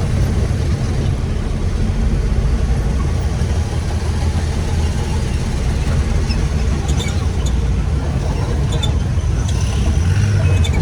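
Motor vehicle engine running steadily, a continuous low-pitched sound, with a few faint ticks in the second half.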